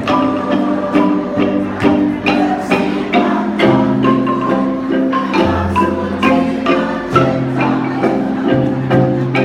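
Kolintang ensemble of wooden xylophones playing, with quick struck notes over sustained rolled chords and a low bass line that changes notes a few times.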